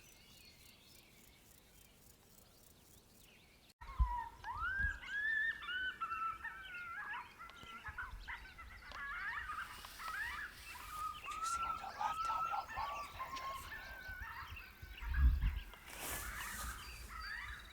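A long run of coyote-style yips, whines and wavering howls, many short calls that rise and fall in pitch, starting suddenly about four seconds in after a faint, quiet stretch, with a couple of low thumps mixed in.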